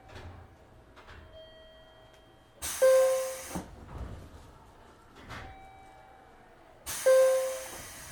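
Pneumatic door gear of a JR 103 series 1500-subseries electric train giving two sharp bursts of air hiss with a brief whistling tone, about four seconds apart, as the doors work at a station stop. Lighter knocks come in between.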